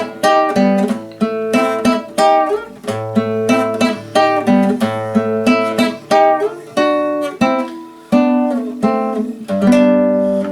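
Acoustic guitar playing an instrumental passage of a song, with plucked notes and chords ringing out one after another, a few each second.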